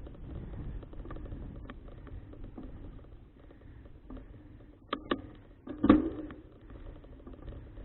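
Low wind and road rumble from riding a folding bicycle, with a few sharp rattling clicks and one louder knock about six seconds in.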